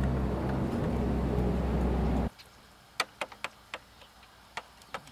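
A loud, steady low hum stops suddenly a little over two seconds in, followed by a run of scattered sharp ticks and taps.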